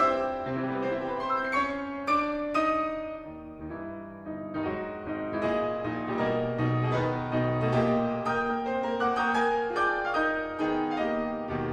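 Background music played on piano, a flowing melody of many notes over sustained bass notes.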